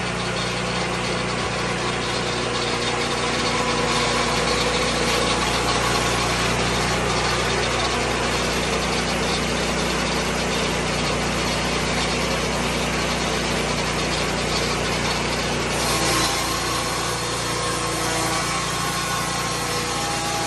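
Lucas Mill 10-30 swing-blade sawmill running steadily, its engine driving the circular blade through white pine. About sixteen seconds in, the pitch shifts and the sound grows brighter.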